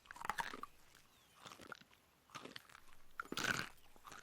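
Crunchy chewing and biting of tough, fibrous food such as bark: several separate crunches spread over the few seconds.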